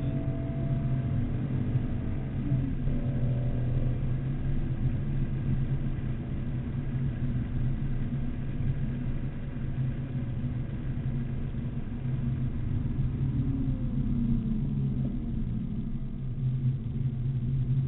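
BMW Z4 M Coupe's straight-six engine running at track speed, heard inside the cabin over wind and tyre noise. The engine note holds mostly steady, shifting in pitch briefly a few seconds in and again about three-quarters through.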